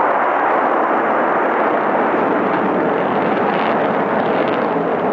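Steady rushing noise of jet aircraft engines passing overhead, holding at a constant loud level.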